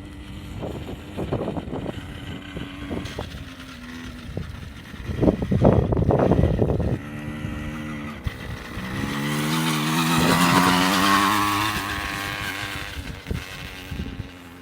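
Motorbike engine running and revving: a loud, rough burst about five seconds in, then the engine note climbs and swells to its loudest around ten seconds before fading away.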